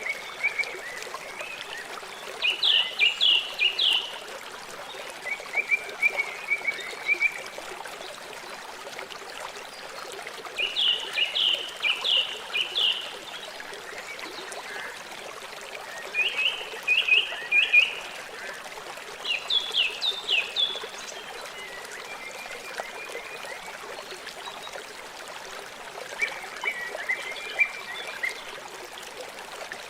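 River water flowing steadily. Over it, an animal calls in short phrases of rapid chirps about every few seconds, some louder and some fainter.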